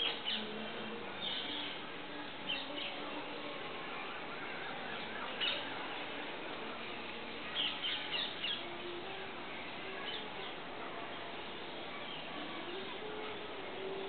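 Small bird chirping in short, high notes scattered through the tree, with a quick cluster of chirps about eight seconds in, over a steady background hiss.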